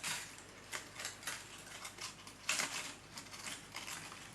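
Irregular clicks and rustles as wire-stemmed handmade flowers and leaf branches are handled and pushed into a vase, the stems and leaves brushing and tapping against each other, with the sharpest clack about halfway through.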